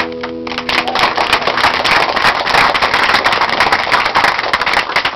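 Audience clapping after an acoustic song, starting about half a second in as the final guitar chord dies away, then a dense, steady clatter of claps.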